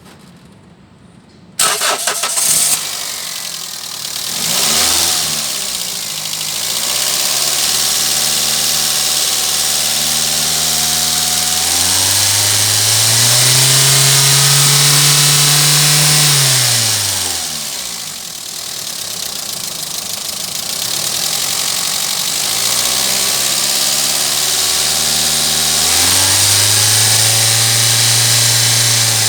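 Toyota Etios car engine starting about one and a half seconds in and settling to idle. It is then revved and held at raised revs twice, its pitch rising, holding and falling back around the middle, then rising again near the end.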